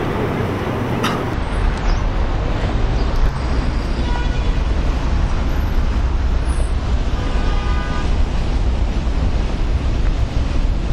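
Steady low rumble of vehicle and road noise, with brief faint horn-like tones about four and eight seconds in.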